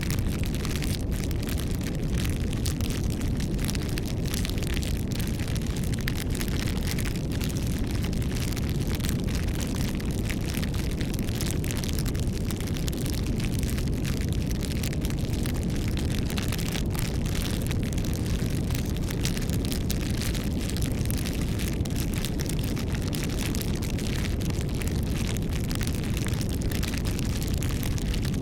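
Campfire burning steadily: a low, constant rush of the fire with frequent small crackles and pops of burning wood.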